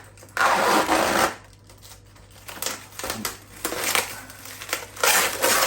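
Plastic food packaging being pulled and torn open: two loud bursts of crinkling and tearing film, one about half a second in and one near the end, with lighter crackling in between.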